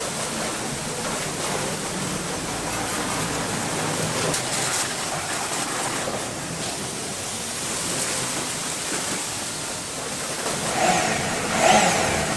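Road traffic: a steady mix of engine and road noise from passing vehicles, a little louder near the end.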